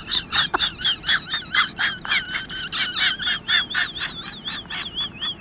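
An animal's rapid high-pitched chirping calls, about four a second, turning into a wavering warble in the second half.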